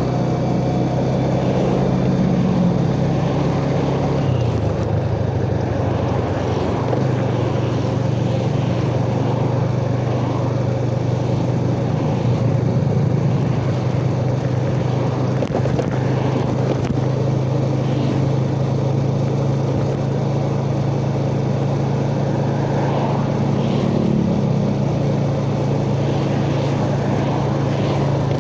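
Yamaha Jupiter Z underbone motorcycle's single-cylinder four-stroke engine running steadily while riding, heard from the rider's chest. The engine note drops about four seconds in and rises briefly then settles again near the end.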